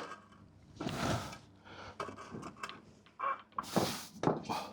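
Gearbox being worked loose from the engine: a series of short creaks and scrapes of heavy metal parts shifting against each other, the loudest near the end.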